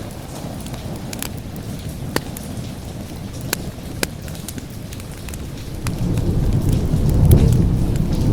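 Wood fire crackling with scattered sharp pops over steady rain; about six seconds in a low roll of thunder builds and peaks near the end.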